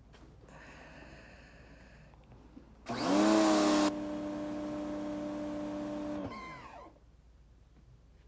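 Electric pressure washer starts about three seconds in with a loud hiss of spray over its motor hum; after about a second the spray stops and the motor hums steadily for about two seconds, then winds down with a short gliding squeal, which the owner says sounds like metal parts rubbing together.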